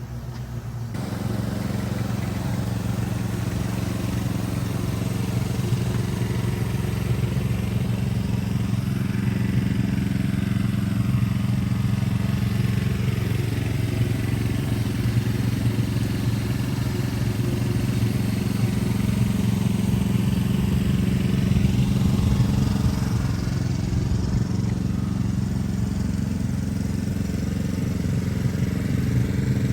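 Old Ford Thunderbird's engine running steadily at idle, coming in about a second in.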